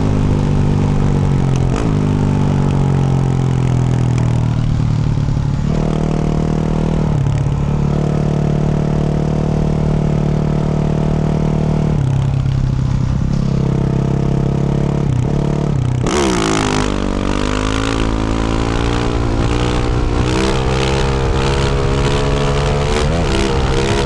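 2024 Yamaha YZ450F's single-cylinder four-stroke engine, through a Yoshimura RS-12 exhaust, running hard under changing throttle. Its pitch holds, dips and climbs again several times. About two-thirds of the way in, a rattle of knocks and clatter joins the engine.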